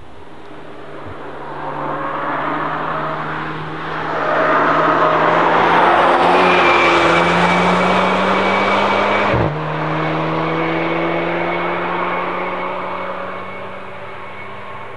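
Engine of a camouflaged Mercedes SUV prototype under throttle on a track, passing and pulling away, with an upshift about nine seconds in; the engine note then fades as the car drives off.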